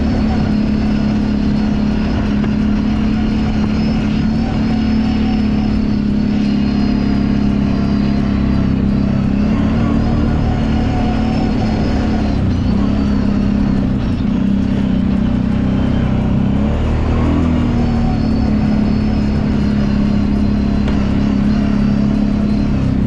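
Kawasaki Brute Force 750 ATV's V-twin engine running steadily under way, its pitch dropping briefly and rising again twice with throttle changes.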